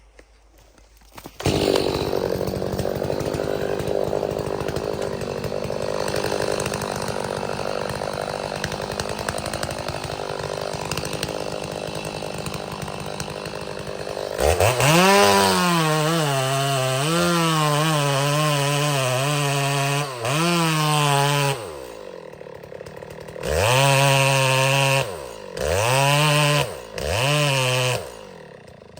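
Gas chainsaw cutting wood, running steadily for the first half, then at full throttle with its pitch sagging and recovering under load. Near the end it is revved in several short bursts, the pitch dropping away as the throttle is released after each.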